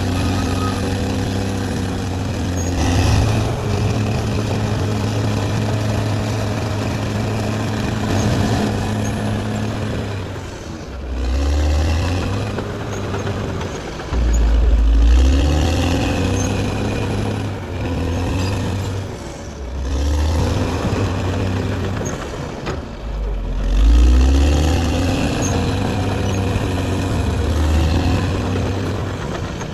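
Caterpillar D6R XL bulldozer's diesel engine working. It runs steadily at first, then from about ten seconds in it surges and eases off again and again, about every three seconds, as the dozer takes and sheds load.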